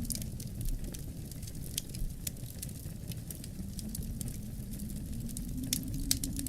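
Wood fire crackling, with many small irregular pops and snaps, over a low wind howl whose pitch slowly sinks and then rises again.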